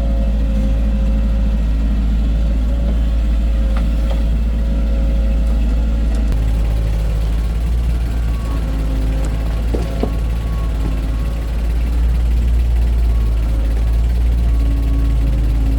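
Heavy construction machine's diesel engine running steadily, its pitch shifting about six seconds in as the load or engine speed changes.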